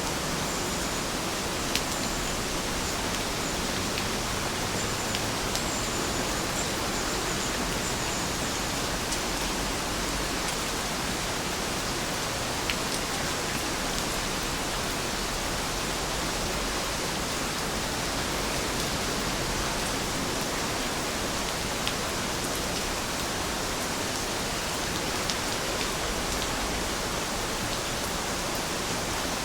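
Steady rain, an even hiss of falling rain with now and then a single drop ticking sharply close by.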